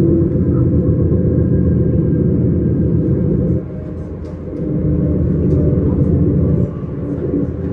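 Suburban electric train running, a steady low rumble with a motor hum, which drops in loudness for about a second roughly halfway through.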